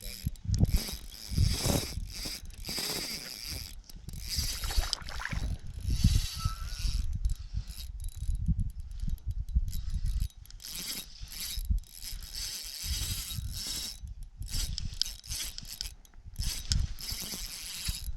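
Fishing reel cranked in stop-start spurts while playing a hooked trout on light line, its gears winding and clicking. Irregular low bumps from handling the rod run underneath.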